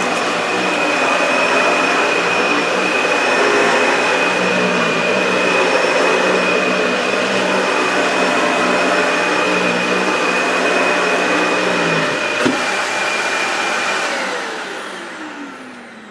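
Dyson DC65 upright vacuum cleaner running on carpet with a steady high whine and a low hum. About twelve seconds in the low hum stops and there is a click, then the motor's whine falls in pitch and fades as it is switched off and spins down.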